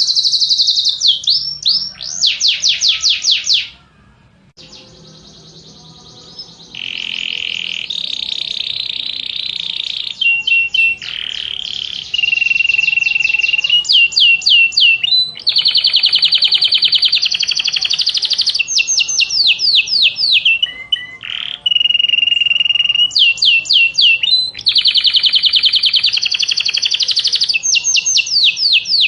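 Domestic canary singing: fast trills and rolls repeated in runs of a second or two, each run at a different pitch, with a short break about four seconds in.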